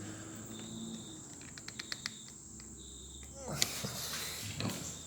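Crickets trilling steadily throughout, with a quick run of small clicks about one and a half seconds in from a tool tightening the trimmer's handle bolt, and a brief louder rustle about three and a half seconds in.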